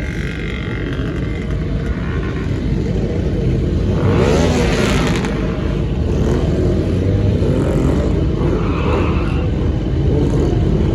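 Motorcycle and car engines running together, with a brief loud hiss about four seconds in.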